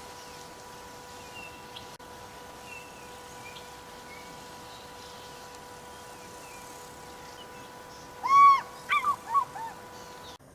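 Faint bird chirps over a steady outdoor hiss, then near the end a loud bird call: one arched, hooting note followed by several quick, shorter notes.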